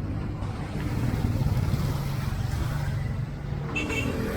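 A motor vehicle's engine running close by on the street, growing louder about a second in.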